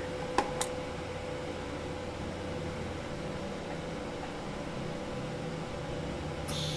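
TIG welder running on stainless steel: a steady low hum and hiss from the arc and machine. Two light clicks come about half a second in, and a short, loud burst of noise comes at the very end.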